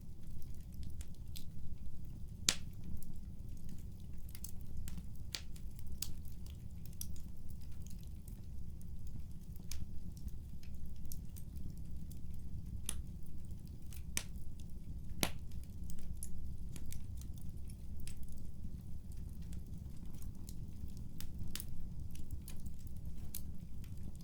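Fireplace wood fire crackling: irregular sharp pops and snaps, a few louder than the rest, over a steady low rumble.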